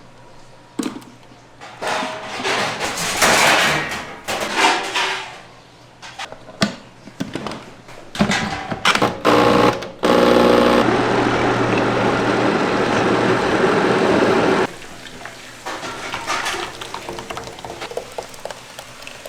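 Kitchen work while a sauce is being made: clattering utensils and rushing, pouring-like noise, then a steady loud noise for about five seconds that cuts off suddenly, followed by lighter clatter.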